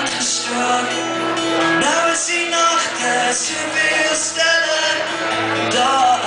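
Live band music with a steady beat: a song's intro, with a melody line over bass and cymbals.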